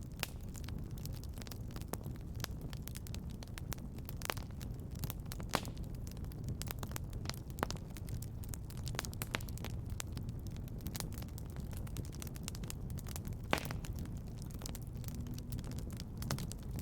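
Fire in a fireplace crackling: irregular sharp pops and snaps over a steady low rumble, with one louder pop near the end.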